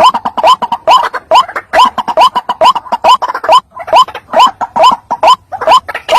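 White-breasted waterhen (ruak-ruak) calling: a long run of short, rising notes, repeated a few times a second, with a brief break a little past halfway.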